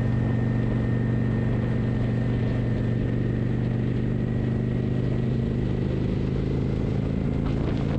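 Kawasaki motorcycle engine running at a steady speed while riding, its pitch holding level without revving.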